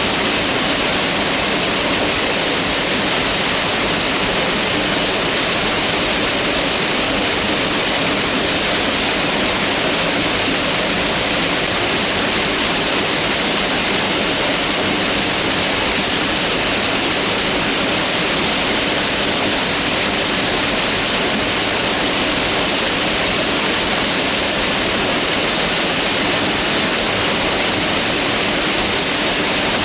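Mountain river rushing steadily over rocks, a loud, even wash of water noise.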